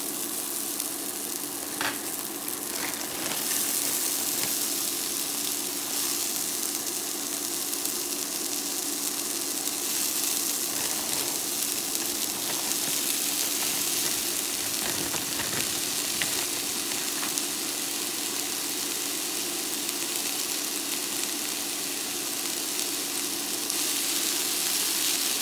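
Thawed frozen green peas sizzling in butter in a skillet, a steady frying hiss. Near the end a wooden spoon stirs them.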